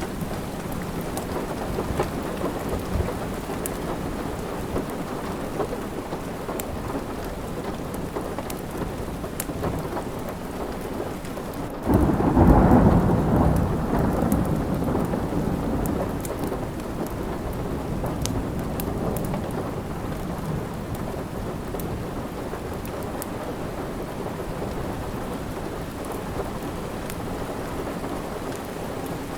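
Steady rain with a thunderclap about twelve seconds in that rolls on and fades over a few seconds. Light crackles of a wood fire in a fireplace pop now and then over the rain.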